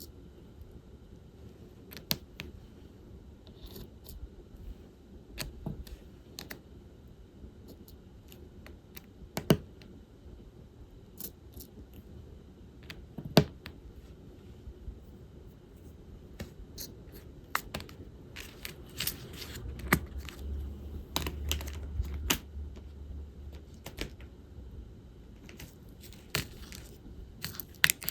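Diamond-painting work: irregular small clicks and taps of a drill pen picking up resin drills and pressing them onto the sticky canvas, with light rattling of drills in a plastic tray. A low rumble lasts about two seconds a little past the middle.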